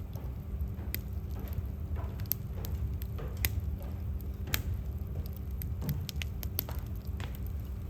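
Wood fire in a fireplace crackling, with sharp irregular pops and snaps over a steady low rumble.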